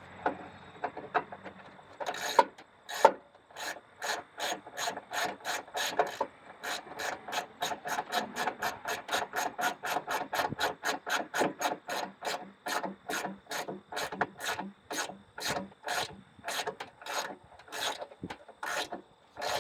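Hand ratchet wrench clicking in quick, even strokes, about four a second, as a bolt is run in; the clicking starts about two seconds in.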